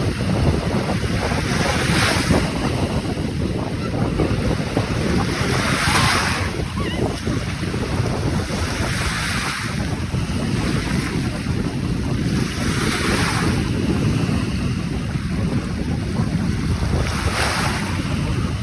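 Caspian Sea waves breaking, a surge of surf about every four seconds, with wind buffeting the microphone as a steady low rumble.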